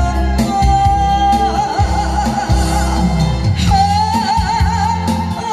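A singer's voice over instrumental accompaniment with a steady beat and bass. She holds two long notes with heavy vibrato: one from just after the start to about a second and a half in, the other from near four seconds to the end.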